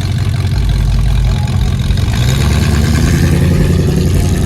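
A car engine running close by, a low rumble that gets louder about halfway through.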